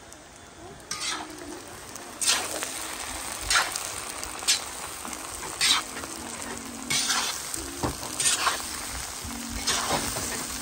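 Diced eggplant, potato and lamb frying in a cast-iron kazan, sizzling steadily, while a metal slotted spatula stirs and scrapes through it in about nine separate strokes.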